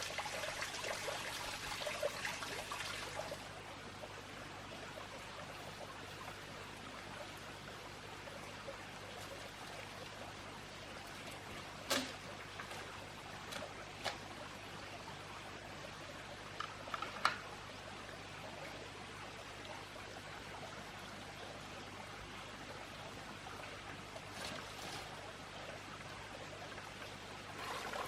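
Running water trickling steadily, somewhat louder for the first few seconds, with a few light clicks.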